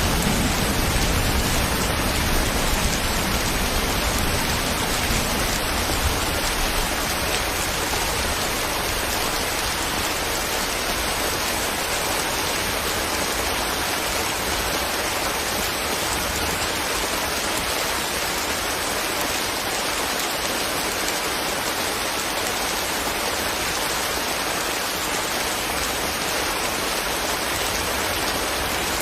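Steady rain falling, an even, unbroken hiss. A low rumble underneath dies away over the first several seconds.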